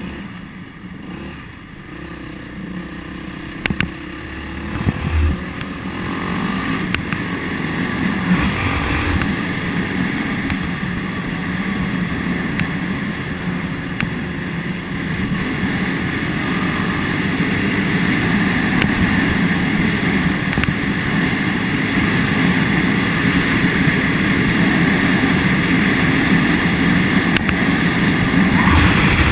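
Motorcycle engine running while riding, picking up speed in the first several seconds with its note rising, then holding a steady cruise, with wind rushing over the microphone. A few knocks sound about four to five seconds in.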